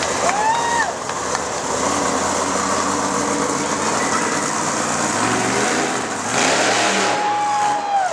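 Monster truck engine running and revving, its pitch rising and falling through the middle. Two high whooping tones cut through over it, one near the start and a longer one near the end.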